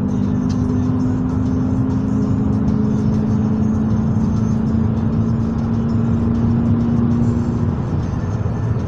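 Steady road and engine noise inside a moving car's cabin, with a low droning hum that drops away near the end.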